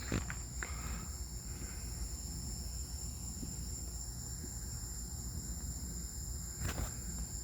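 Crickets chirring steadily in a high, continuous band, over a low rumble, with a few faint clicks.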